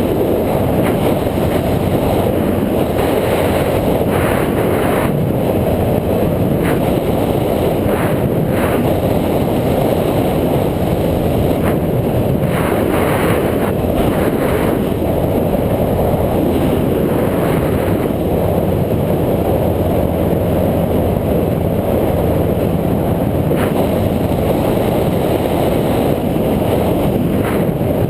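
Wind buffeting an action camera's microphone while riding, a steady loud rumble mixed with road and vehicle noise, with occasional light clicks or rattles.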